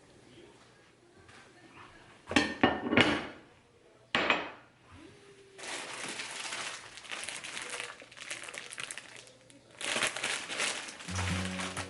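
Kitchen handling sounds: dishes and utensils clatter loudly a few times, then a sharp knock, then a long crinkling rustle. Music comes in near the end.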